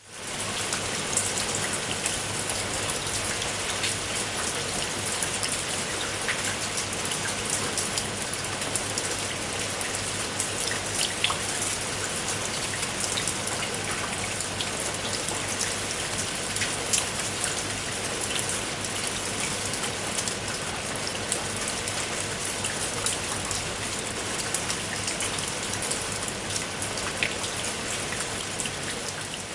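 Steady rain falling, with many individual drops ticking sharply on a surface over a constant hiss.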